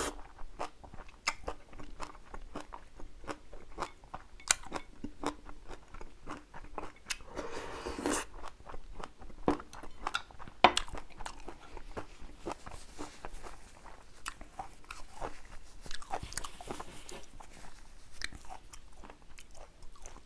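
Close-miked eating: a person chewing jjajang ramyeon noodles and kimchi, with a steady run of wet mouth clicks and crunches, and a short noisy rush about eight seconds in.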